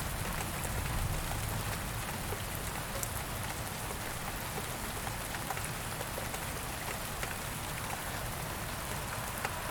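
Steady rain falling, with many separate drops pattering on surfaces over a constant hiss and a faint low rumble in the first couple of seconds.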